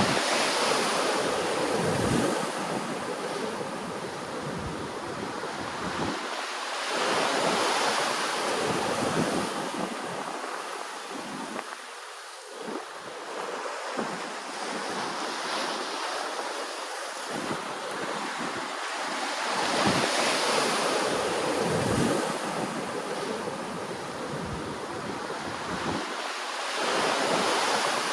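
Ocean surf breaking and washing in, rising and falling in slow surges every several seconds.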